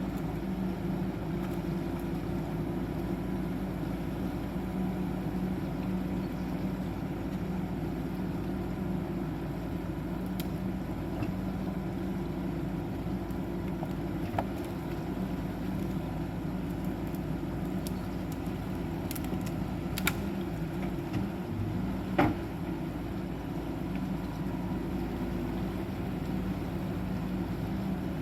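Caterpillar 420F backhoe loader's diesel engine running steadily, with a few short sharp knocks, the loudest about three-quarters of the way through.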